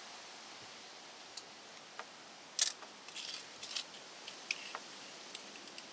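Wire strippers working on insulated electrical wire: a run of sharp clicks and snips, bunched together from about two and a half seconds in.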